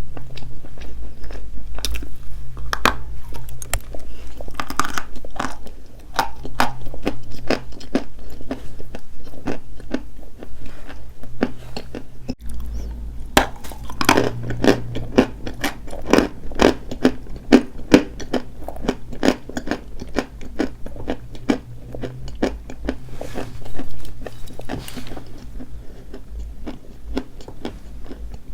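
Close-up crunching and chewing of dry white chalk: a dense run of brittle crunches as pieces are bitten and chewed, with short pauses between mouthfuls.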